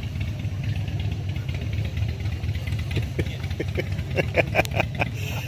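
A car engine idling with a steady low rumble, with brief voices in the background in the second half.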